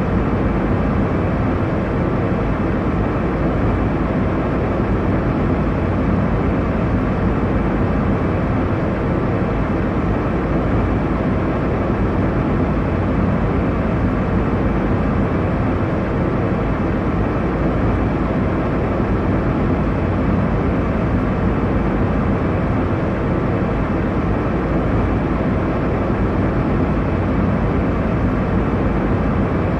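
Airliner cabin noise in cruise: a steady, unbroken low roar of engine and airflow, strongest in the low and middle range.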